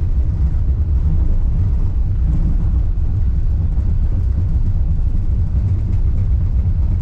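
Steady low rumble of a Wuppertal Schwebebahn suspension railway car running along its overhead rail, heard from on board.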